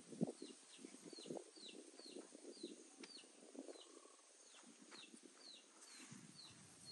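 A small bird calling faintly: a steady series of short, high whistled notes, each sliding downward, about two a second, over faint low rustling.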